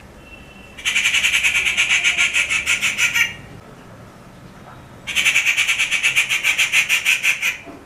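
Rufous treepie calling: two bouts of a rapid, harsh, rattling call, each about two and a half seconds long, with a short gap between them.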